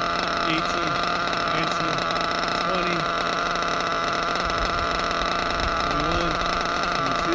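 Drag-modified Novarossi .28 nitro engine in a 1/7-scale Kyosho Scorpion truggy idling with a steady, unchanging buzz; the idle holds consistently with the tank still running.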